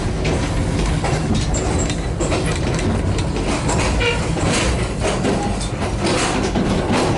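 Passenger train running, a steady rumble from inside the carriage with the wheels clattering irregularly over rail joints and points.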